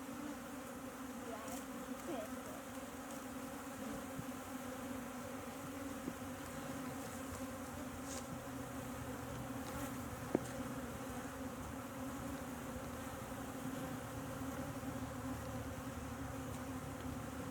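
Steady buzz of a honeybee colony around its opened hive, many bees humming together at one low pitch. A few faint clicks sound now and then.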